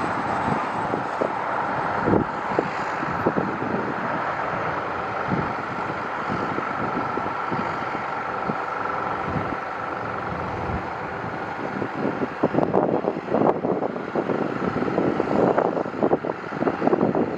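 Jet airliner engine noise with a faint steady whine, under heavy wind buffeting the microphone. The gusts grow stronger about twelve seconds in.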